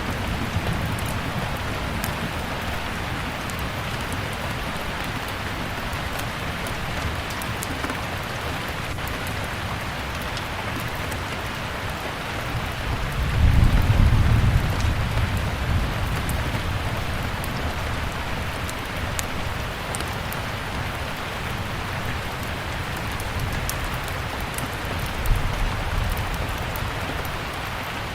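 Steady rain, with scattered small crackles of a wood fire throughout. A low rumble of thunder swells up about halfway through, and a fainter one comes near the end.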